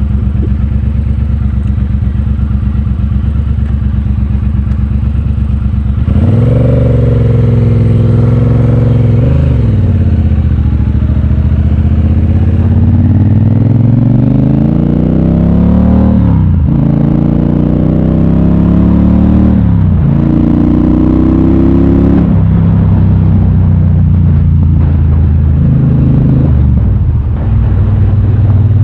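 Triumph Bobber's 1200cc parallel-twin engine under way: a steady low note for the first six seconds, then it pulls harder and the note climbs in pitch, dropping back at each of several upshifts, before settling into a steady cruise.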